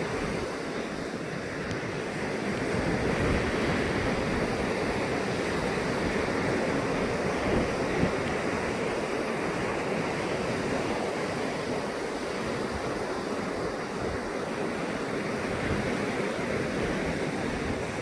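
Rough ocean surf rushing steadily onto a beach, with wind buffeting the microphone.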